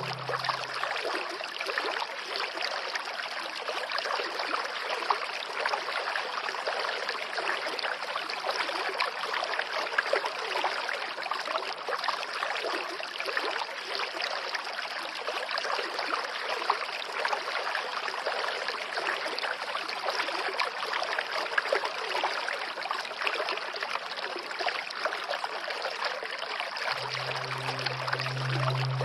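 Flowing stream water babbling and trickling steadily. A low sustained music tone fades out about a second in and returns near the end.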